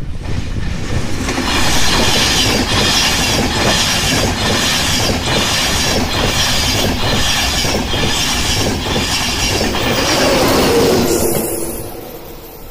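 Virgin Trains East Coast InterCity 225 express train passing close by at speed: loud rushing wheel-on-rail noise with a regular clatter of wheelsets over the rail joints. It builds quickly at the start and fades away as the last coaches clear, about a second before the end.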